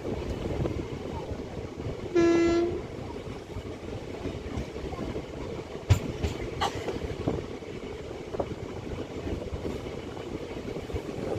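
Express train running at high speed, around 130 km/h, with a steady rumble of wheels on the track heard from inside the coach. A single short train horn blast sounds about two seconds in, and a couple of sharp knocks come about six seconds in.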